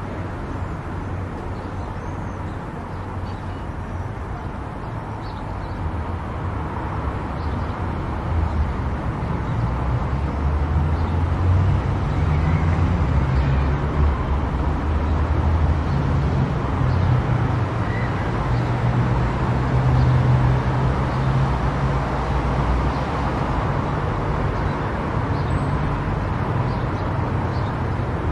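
Car driving on a highway: steady tyre and engine rumble with road noise, growing louder from about eight seconds in and easing a little near the end.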